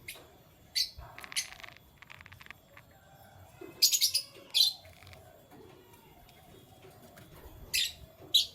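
Pet canaries giving short, sharp, high chirps, about six of them spread irregularly, with a quick rattling series of ticks early on.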